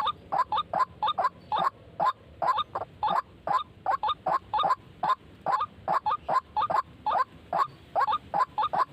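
White-breasted waterhen calls: a long run of short, loud, repeated croaking calls, about three a second, without pause.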